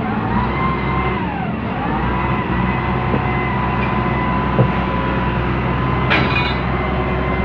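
Heavy diesel engine of the truck or crane running steadily, with a high whine that dips in pitch twice and then holds steady. A single knock about four and a half seconds in.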